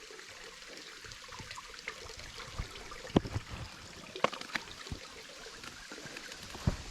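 Creek water trickling over a small rock cascade into a pool, a weak, steady flow. A few light, sharp knocks are scattered through the middle.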